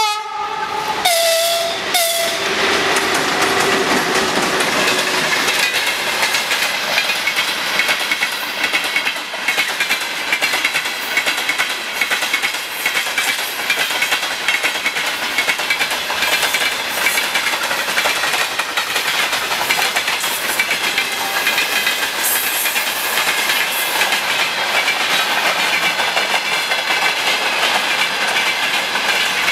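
A VL10K electric locomotive and its freight train rolling past, with steady loud wheel-and-rail noise from the passing wagons. A short horn signal sounds at the very start, over about the first two seconds.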